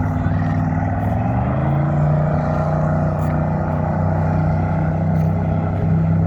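Motorboat engine running, rising in pitch about a second in as it throttles up, then holding a steady note.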